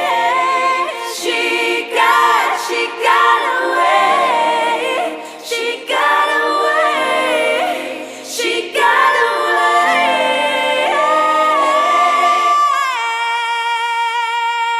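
Wordless, choir-like layered singing over sustained low notes, as the outro of a pop song. About 13 seconds in the low notes stop and a single held chord rings on.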